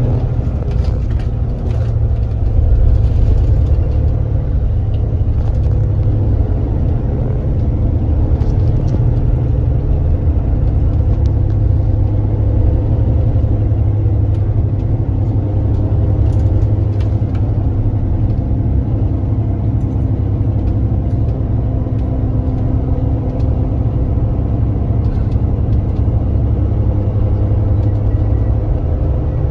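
Kia Granbird Sunshine coach engine running steadily under way: a loud, low drone with small shifts in pitch and a few light rattles.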